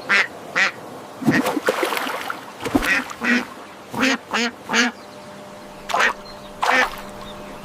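Duck quacking: about ten short quacks, singly and in quick runs, over a steady outdoor background.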